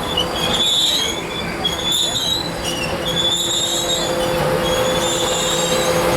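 A passenger train rolling slowly to a stop, its wheels and brakes squealing high on and off over a steady rumble and hum.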